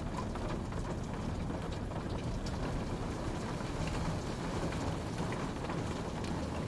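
Steady rain falling, a constant low hiss with scattered individual drops ticking.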